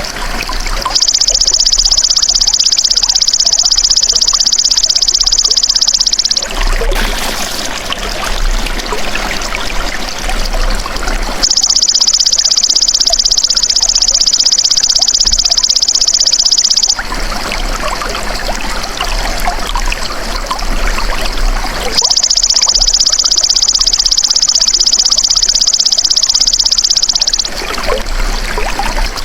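Belalang emas (golden grasshopper) insect song: three long, high, dense buzzing trills of about five and a half seconds each, starting about every ten seconds, over a steady trickle of running water.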